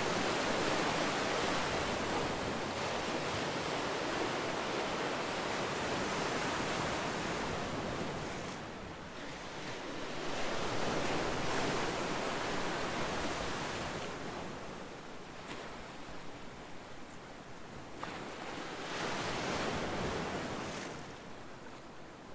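Ocean surf: waves breaking and washing in as a steady rush, swelling with a new wave about ten seconds in and again near the end before easing off.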